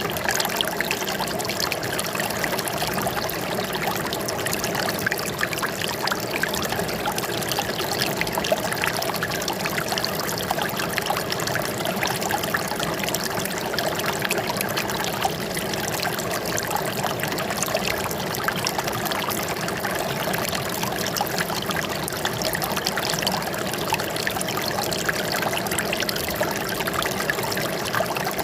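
Running water trickling and splashing steadily over stones, with many small splashes, like a small stream or cascade.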